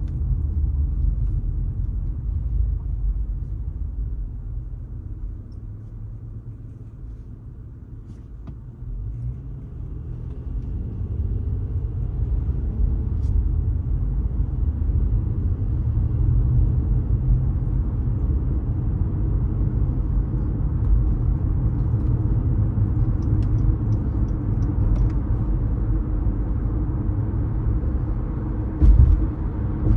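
A car driving in traffic: a low rumble of engine and road noise. It quietens for a few seconds as the car slows, then builds again with a rising engine note as it pulls away. There is a single thump near the end.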